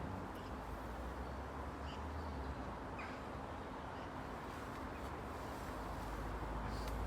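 Steady outdoor background noise with a low rumble that grows louder near the end, and a few faint bird chirps.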